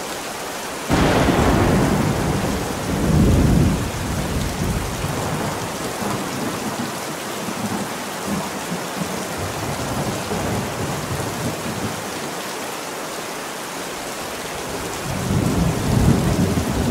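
Steady rain with thunder. A sudden thunderclap about a second in rolls on as low rumbling for about three seconds, and another roll of thunder builds near the end.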